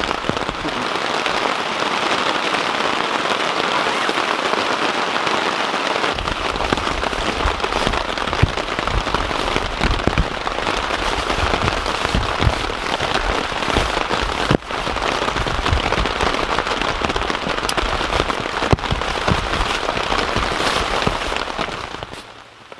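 Heavy rain pouring onto tent fabric, heard from inside the tent as a dense, steady patter with low thuds from about six seconds in; it dies down near the end.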